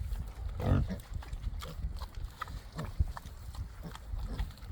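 Farm animals feeding on grain, one giving a short call about a second in, with scattered clicks and wind rumbling on the microphone.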